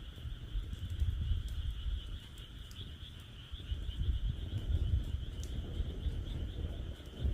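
Wood fire crackling with scattered sharp pops, over a steady chorus of frogs calling and a low rumble.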